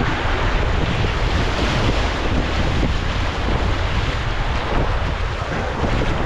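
Rushing creek whitewater, loud and steady, with wind buffeting the microphone.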